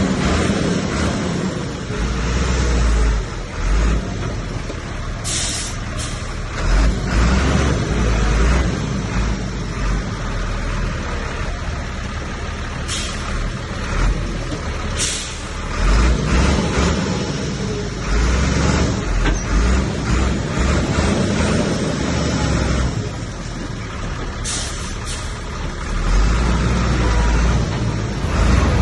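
Heavy diesel earthmoving machinery running and working, the engine noise swelling and easing under changing load, with a few short, sharp, high-pitched bursts on top.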